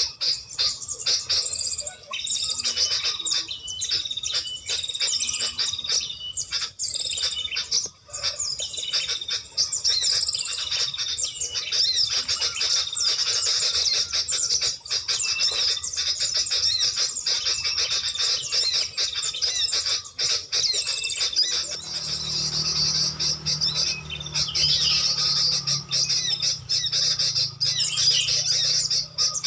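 Small songbirds chirping and calling continuously, many quick high calls overlapping. A faint low hum joins about two-thirds of the way through.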